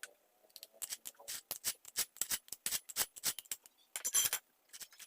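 Quick, irregular clicks and light scrapes of small metal and plastic parts being handled while a mini chainsaw is cleaned, with a short rattling burst about four seconds in.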